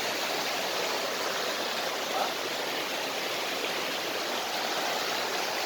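A mountain stream rushing steadily over rocks: an even, unbroken noise of flowing water.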